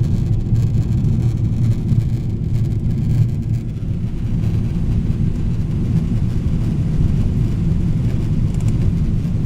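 Steady low rumble of engine and airflow noise inside the cabin of a Boeing 777-300ER with GE90 engines, on descent for landing.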